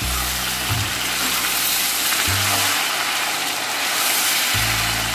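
Boiled liver pieces sizzling steadily in hot coconut oil in an iron wok (cheenachatti), with a low hum underneath.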